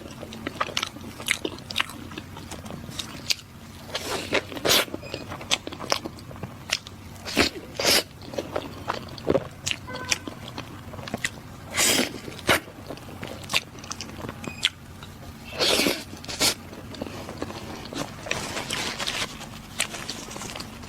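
Close-miked eating of ice jelly (bingfen): bites and chewing with many sharp clicks. There are a few louder, longer bursts about 4, 12 and 16 seconds in.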